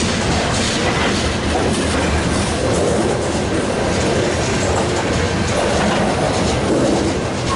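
Freight train cars rolling past, steel wheels on the rails making a steady, loud running noise.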